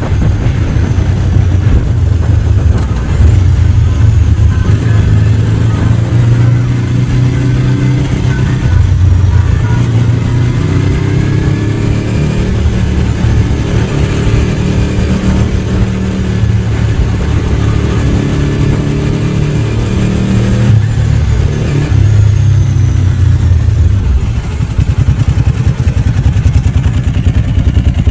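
Ducati 749's L-twin engine running on the move, its pitch rising and falling again and again as the bike speeds up and slows.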